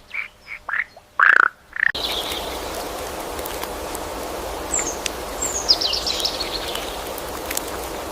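A handful of short animal calls, then an abrupt change to a steady outdoor hiss with a bird chirping a quick series of high, falling notes about midway.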